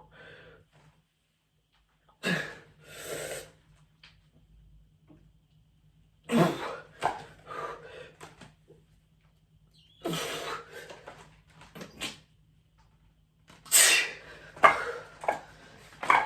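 A man exhaling hard in short, forceful bursts about every four seconds, straining through a set of dumbbell curls.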